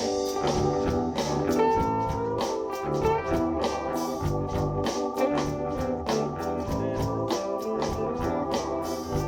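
Live soul band playing an instrumental song intro: drum kit keeping a steady beat under bass, electric guitar and organ-toned keyboard chords.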